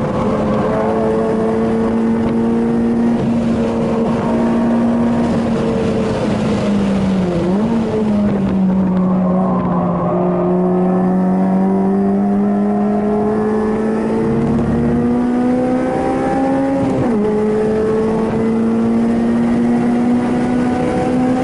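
Honda Civic Type R FD2's 2.0-litre four-cylinder engine under hard driving, heard inside the cabin. The engine note dips and wavers about a third of the way in, climbs steadily, drops sharply near the end as an upshift, then climbs again.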